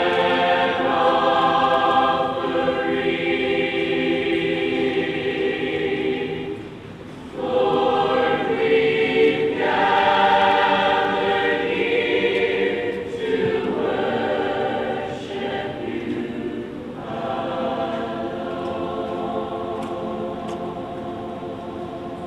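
A choir singing in long held phrases, with brief pauses between phrases about seven and seventeen seconds in.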